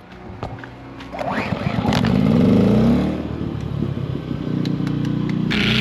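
Small petrol engine, likely a portable generator, starting up. It catches about a second in, rises in pitch as it comes up to speed, then runs steadily. Music comes in near the end.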